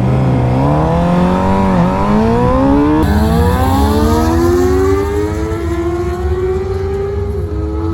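Motorcycle engine accelerating hard under full throttle. Its pitch climbs steadily and drops sharply at each upshift, about four times through the gears.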